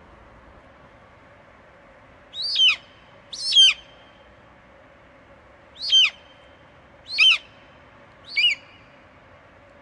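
An eagle screeching five times, each call short and falling steeply in pitch from high to lower, spaced roughly a second apart, over a faint steady background hiss.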